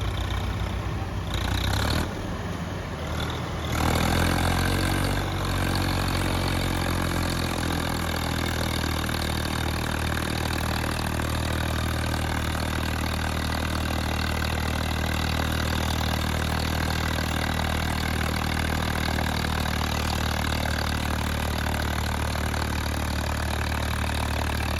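Diesel tractor engine running hard and steady, as when pulling under load. About four seconds in it gets louder and its pitch shifts for a few seconds, then settles.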